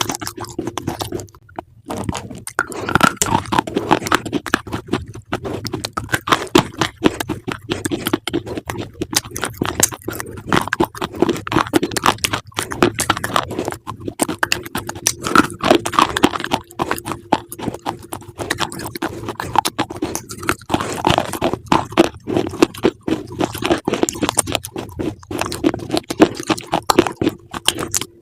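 Close-miked chewing of crunchy food: dense, irregular crunching and cracking bites with no pauses. A steady low hum runs underneath.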